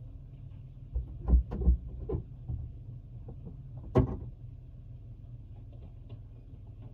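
Steady low hum of a car's engine heard inside the cabin, with a quick cluster of knocks and thumps about a second in and one sharp click a few seconds later.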